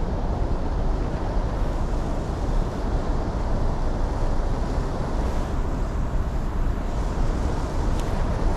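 Strong wind buffeting the microphone: a steady low rumble with a single sharp click near the end.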